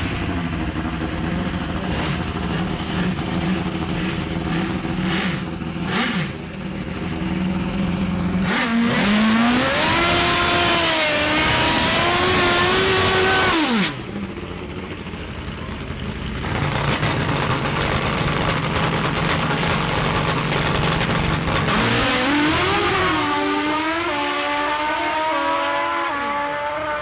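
Pro Extreme drag-racing motorcycle engine running steadily, then revved high and held for about five seconds during a burnout before cutting off sharply. It runs steadily again, and about 22 seconds in it launches, the pitch climbing in several steps through the gear changes as it accelerates down the strip.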